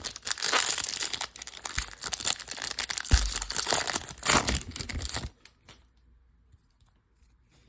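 Wrapper of a Topps baseball card pack being torn open and crinkled: dense crackling and tearing that stops about five seconds in.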